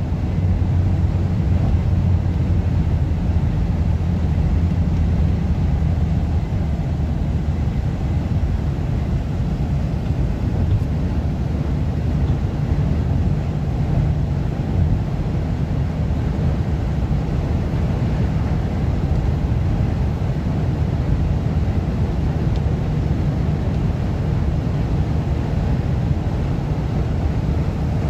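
Car driving at highway speed in strong sandstorm wind: a steady low drone of engine, tyres and wind buffeting.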